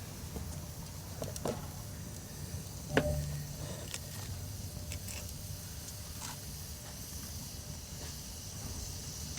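Faint steady background rumble and hiss with a few scattered small clicks, and one louder knock about three seconds in.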